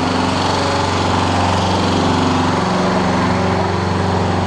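Small motorbike engine running steadily close by, a low even hum with a fast pulse.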